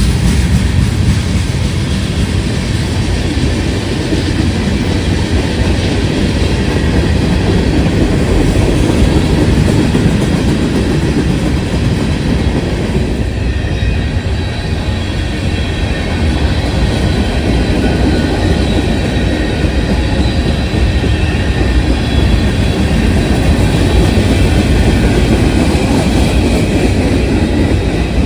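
Freight train rolling past close by: a steady, loud rush of railcars and wheels on the rails.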